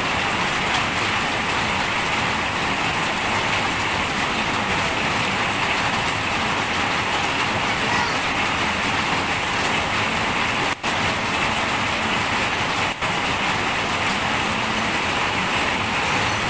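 Steady rain falling, an even hiss, with the sound cutting out for an instant twice, about eleven and thirteen seconds in.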